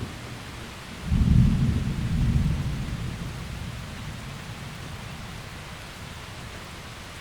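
A deep clap of thunder rumbling in about a second in, loudest for a second or two, then rolling away over several seconds, over a steady hiss of rain.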